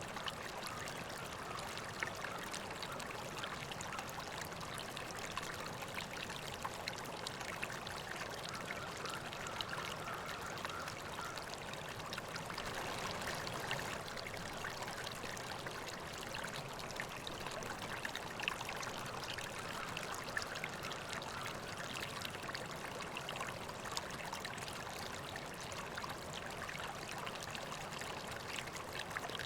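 River water flowing steadily over stones, a continuous babbling and trickling.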